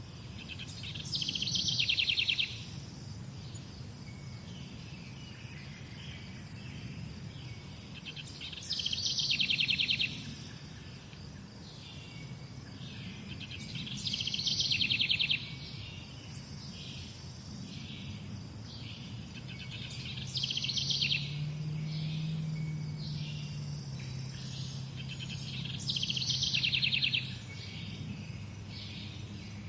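Morning bird song: one bird repeats a short, rapid trilled phrase five times, about every six seconds, with fainter bird calls in between over a low steady background rumble.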